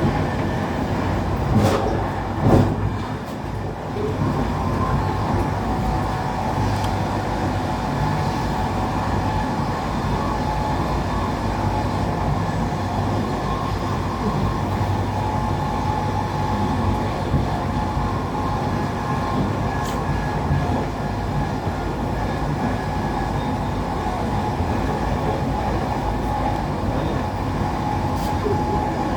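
Passenger train running along the track, heard from inside the carriage: a steady rumble of wheels on rail with two sharp knocks about a second and a half and two and a half seconds in.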